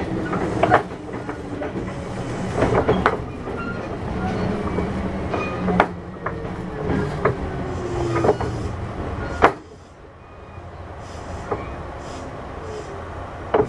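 Kintetsu 6200 series electric train running, its wheels clicking over rail joints over a steady rumble and motor hum. A sharp clunk comes about nine and a half seconds in, after which the running sound is quieter.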